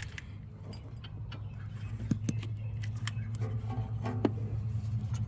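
Metal hand tools clinking and ticking as a bolt is worked with a hand wrench, in scattered light clicks, over a steady low hum that grows slowly louder.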